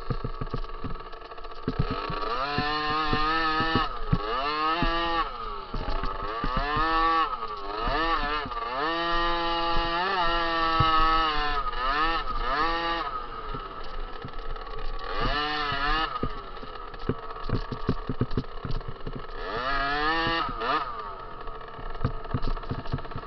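50cc two-stroke motocross bike engine being ridden hard, its pitch climbing and dropping again several times as the throttle opens and closes, with knocks and rattles throughout.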